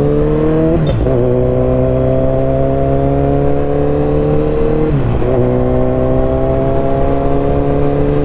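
Kawasaki Z900's inline-four engine pulling under gentle acceleration, its pitch rising slowly. The revs dip briefly twice, about a second in and about five seconds in, as gears are changed.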